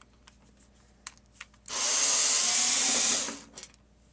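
Power drill-driver running for about a second and a half, starting and stopping abruptly, as it backs a Torx screw out of a DVD recorder's case. A few light clicks of handling come before and after.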